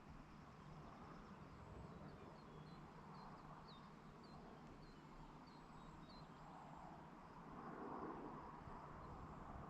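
Faint rural outdoor ambience in which a small bird gives a series of about eight short, high chirps, roughly two a second. The chirps come over a soft background hiss and a steady low hum.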